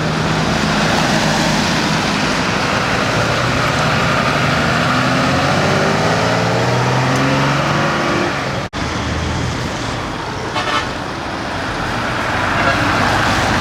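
Decorated trucks (dekotora) driving off, their diesel engines running with pitch rising and falling as they pull away, and horn toots. The sound cuts out abruptly for an instant about nine seconds in.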